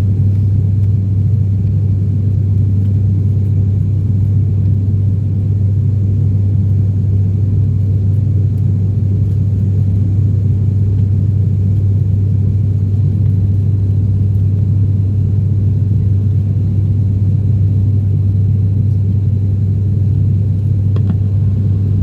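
Steady low propeller and engine drone of an ATR 42-600's two turboprops, heard inside the passenger cabin, holding an unchanging pitch throughout.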